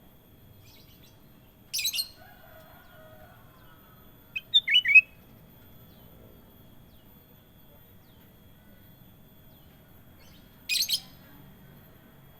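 Kutilang emas bulbul calling in short phrases. There is a brief harsh note about two seconds in, a quick run of three or four falling whistled notes around five seconds in (the loudest), and another brief harsh note near the end.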